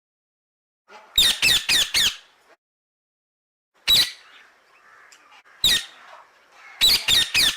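Parrot squawking: a quick run of four short calls, two single calls, then another run of four, with soft chatter between them.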